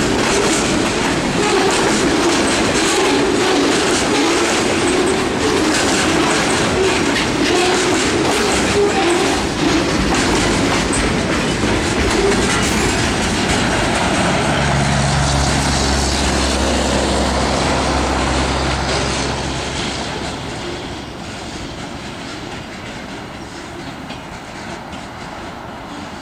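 Freight cars rolling past on steel rails, their wheels clattering over the rail joints in a steady clickety-clack. A low steady hum joins for about five seconds in the middle. The train sound drops away about twenty seconds in, as the last car passes and the train pulls off.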